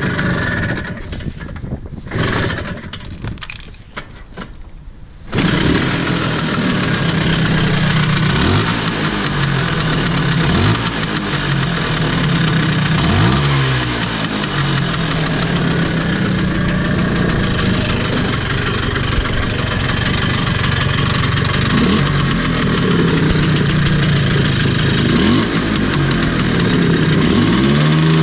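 Vespa two-stroke engine with a Polini 177cc kit, breathing through an original PX125 T5 exhaust box. After about five seconds of irregular knocks the engine catches and runs steadily, with several short throttle blips that rise and quickly fall back. Something blocked inside the exhaust keeps the engine from revving out.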